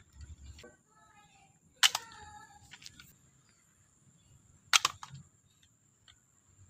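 Two sharp plastic snaps from a toy crossbow, about three seconds apart, as it is worked and fired, launching a toy arrow.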